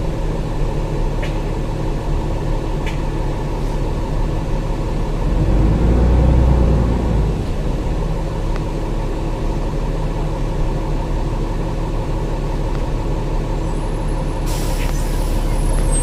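Dennis Trident double-decker bus's diesel engine running with a steady low rumble, swelling louder for a second or so about six seconds in. A thin high whistle comes in near the end.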